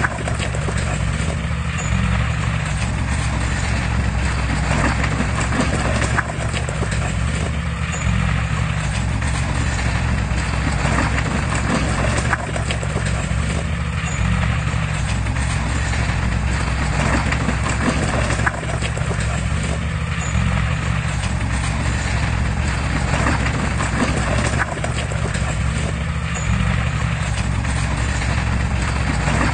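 Heavy diesel machinery running steadily under load, with a continuous rhythmic clatter like steel tracks.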